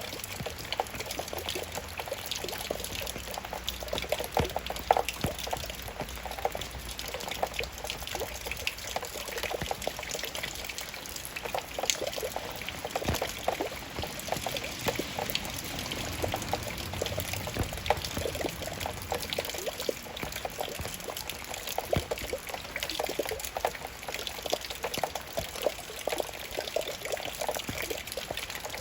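Raindrops falling: many irregular, sharp drops over a steady run of trickling water.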